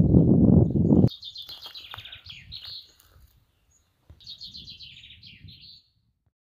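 Songbird singing two high, rapid trilled phrases with a pause of about a second between them. Under the first second a loud low rushing noise cuts off abruptly.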